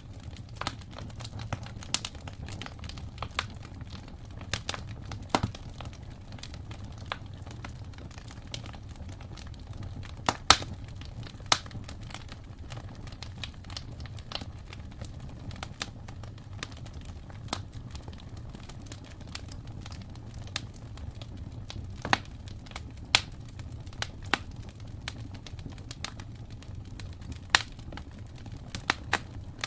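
Wood fire burning in a fireplace: irregular crackles and sharp pops over a low, steady rumble, a few pops louder than the rest.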